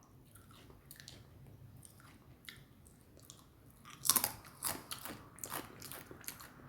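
A person chewing crunchy food close to the microphone: faint irregular crunches at first, getting louder and quicker about four seconds in.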